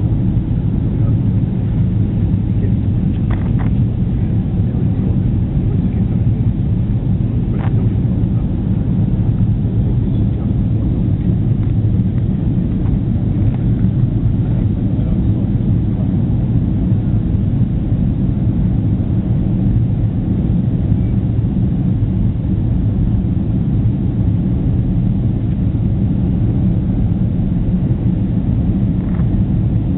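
Steady low rumble of an airliner's cabin in flight after take-off, engine and air noise, with a few faint clicks.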